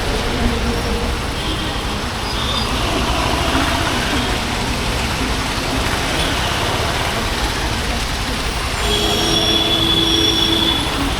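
Honda H'Ness CB350's air-cooled single-cylinder engine and exhaust running under way, mixed with steady road and wind noise. Near the end, a steady high-pitched squeal-like tone sounds for about two seconds.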